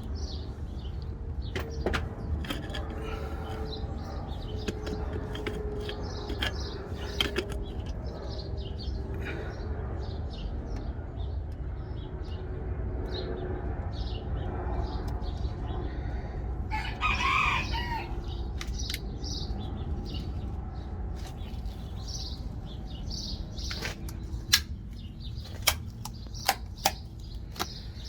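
Scattered light metal clicks and knocks of hand work on a strut's top mount, over a steady low rumble. About seventeen seconds in, one loud bird call lasting about a second stands out.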